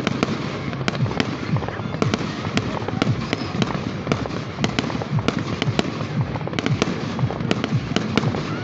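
Aerial fireworks bursting in quick succession: a dense, irregular run of bangs and pops, several each second.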